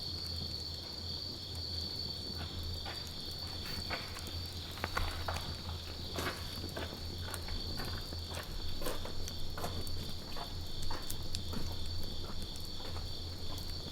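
Wood campfire crackling, with irregular sharp pops and snaps that come thicker in the second half, over a steady high-pitched insect trill.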